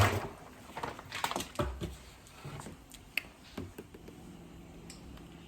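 Kitchen handling noises: scattered light clicks, taps and short rustles, busiest in the first two seconds and sparser after.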